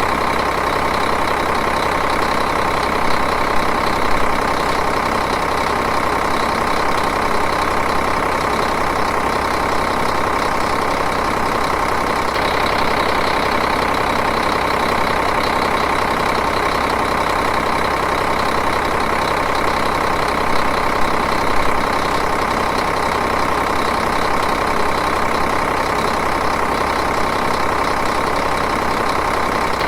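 Diesel engine idling steadily with an even, rapid knock.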